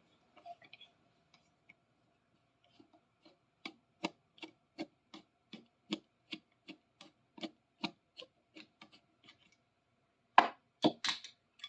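Hand work on a rusty adjustable wrench: a steady run of short scraping or clicking strokes, about two to three a second, followed by a few louder knocks near the end.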